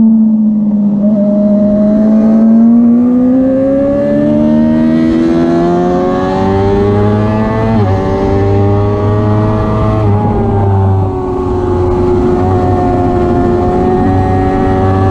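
Suzuki race bike's engine heard from on board at full throttle. Its note climbs steadily as the bike accelerates, with a sharp break about eight seconds in (a gear change) and another about ten seconds in, then holds high and fairly level. Wind rushes over the microphone underneath.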